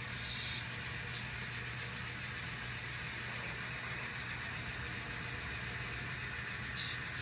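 Model diesel locomotive's sound system running its engine sound as the maintenance train moves slowly down a siding: a steady low hum with a fast, even ticking over it, and two brief higher-pitched bursts, one just after the start and one near the end.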